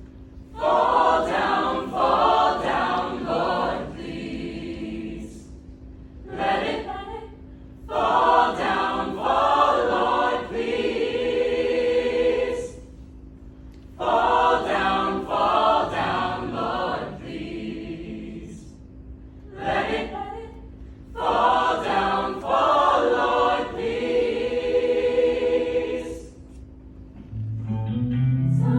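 A cappella choir singing, with no instruments, in phrases a few seconds long separated by short pauses.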